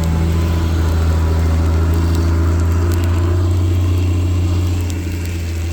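A motor vehicle engine idling close by: a steady low drone.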